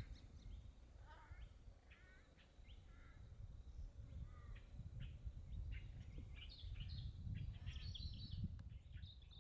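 Faint, scattered short bird calls and chirps from several birds, growing busier in the second half, over a low rumble.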